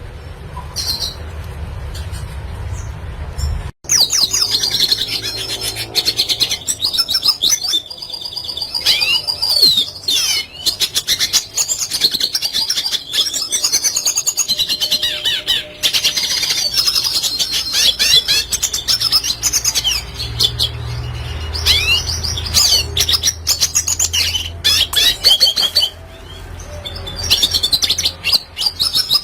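Red siskin singing a fast, continuous twittering song of chirps and quick trills. It starts about four seconds in, after a low steady hum that cuts off abruptly.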